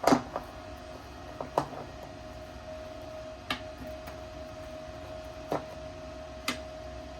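Sharp metallic clicks and knocks, about seven in all and irregularly spaced, the loudest right at the start, as clamps and welding magnets are set onto thin steel sheet. A steady faint hum with one thin tone runs underneath.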